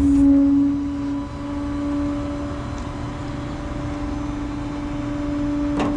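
Tow truck running with a steady, even hum that is louder for the first second, while its equipment is put away and shut off. A sharp click comes near the end.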